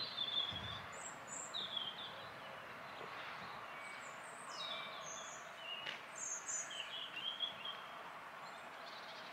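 Small birds singing, short high chirps and whistled phrases scattered throughout, over a steady background hiss of outdoor ambience.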